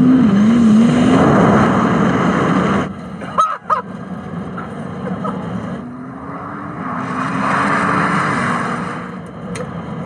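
Rimac Nevera electric hypercar accelerating flat out from a launch: a steady electric motor whine that climbs slowly in pitch, over heavy wind and tyre noise. The sound breaks off briefly about three seconds in, then the whine rises again.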